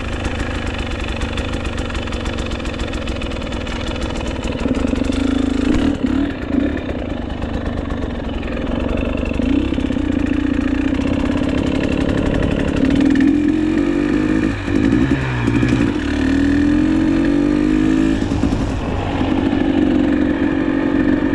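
GasGas EC300 two-stroke enduro motorcycle engine running under way, its pitch rising and falling several times as the throttle is worked.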